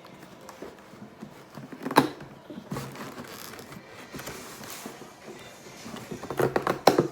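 Hands struggling to open a taped cardboard shipping box: scattered handling noises, a sharp knock about two seconds in, and a quick run of crackling clicks near the end.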